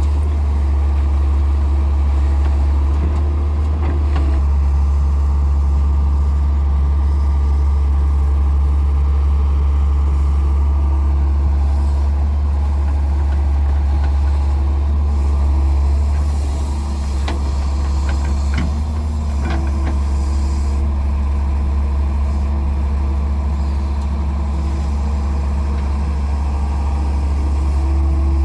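Diesel engine of a Daewoo Solar 170W-3 wheeled excavator running steadily with a deep rumble while it loads mud into a dumper truck, with a few short knocks about two-thirds of the way through.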